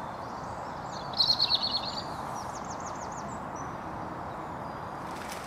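Small songbirds singing over a steady background rush: a quick burst of high notes about a second in, then a run of short, high falling whistles.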